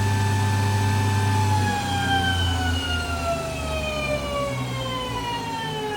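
HURCO TM-6 CNC lathe spindle whining at 6,000 RPM, then about a second and a half in the whine starts falling steadily in pitch as the spindle slows down.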